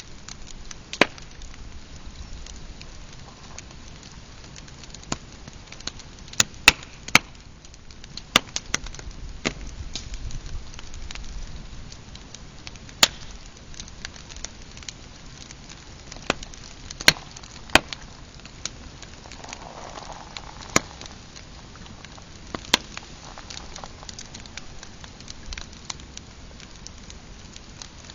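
Pine campfire crackling, with irregular sharp pops and snaps, about a dozen of them loud, over a steady low hiss.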